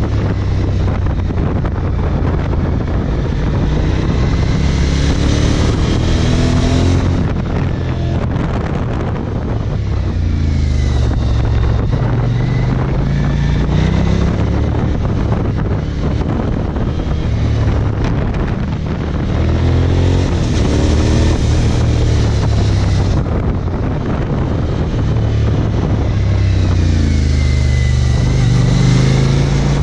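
Suzuki DL1000 V-Strom's V-twin engine under way, its pitch climbing and dropping back repeatedly as the rider accelerates and rolls off the throttle through the bends, with wind rushing over the microphone.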